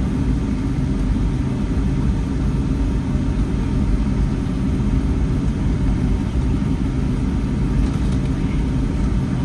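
Steady low rumble of cabin noise inside a Boeing 757-300 airliner: engine and airframe noise heard from a window seat.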